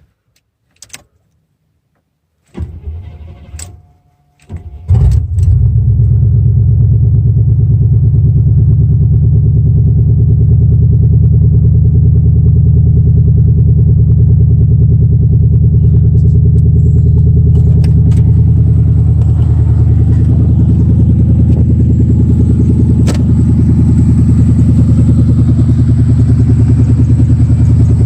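Key clicks, then a 1991 GMC K1500's V8 engine cranking and catching about five seconds in, then idling steadily on freshly replaced spark plugs.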